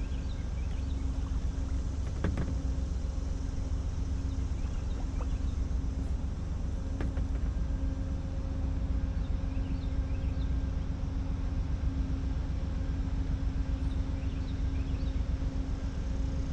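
Diesel locomotives idling: a steady low rumble with a constant hum, and a light knock about two seconds in.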